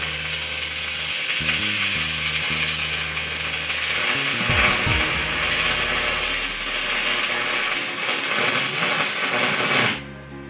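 Electric arc welding at 200 amps on 4 mm steel plate: a steady, loud crackling sizzle from the arc that stops abruptly near the end.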